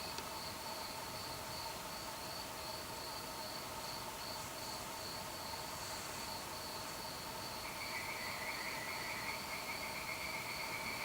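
Crickets trilling steadily on a warm summer night, a continuous high chirring over a soft noise bed. A second, lower trill joins about eight seconds in.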